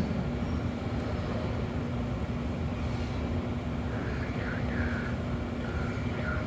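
Steady low rumble and hum of a subway train running.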